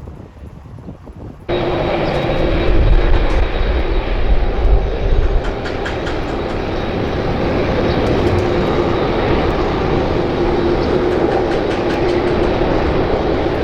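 Light wind on the microphone, then about a second and a half in an abrupt cut to a passenger jet's engines running loud: a steady whine held on a few tones over a deep noise.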